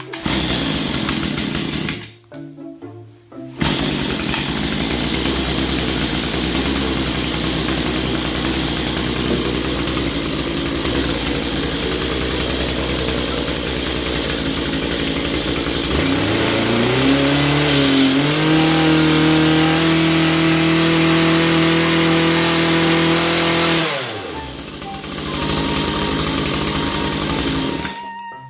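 RYOBI EKM2630 brush cutter's small two-stroke engine running after repair of a light seizure: it idles, revs up about sixteen seconds in and holds a steady high speed, then drops back near the end.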